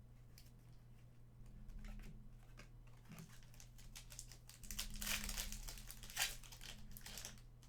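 Foil wrapper of a trading-card pack crinkling and tearing as the pack is opened and the cards handled. The rustling is loudest in the second half, with one sharp click a little after six seconds in.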